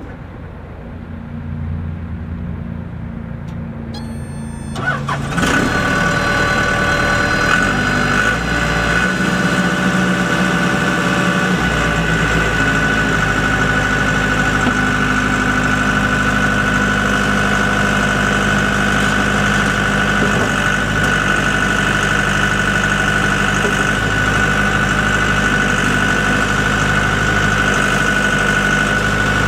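Case 1845C skid steer loader's Cummins diesel engine starting about five seconds in, then running steadily with a steady high whine over the engine note.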